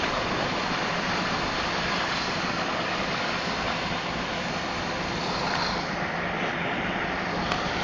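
Fire trucks' engines running steadily, a continuous drone with a rushing noise.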